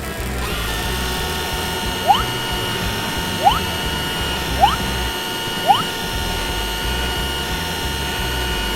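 Steady mechanical whirring, like a tool or machine sound effect, with four short rising chirps spaced about a second apart in the first part.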